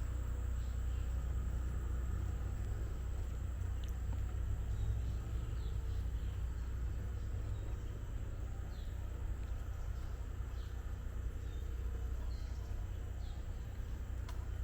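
Tropical forest ambience: short, faint bird chirps scattered throughout, over a steady high-pitched insect drone and a low, constant rumble.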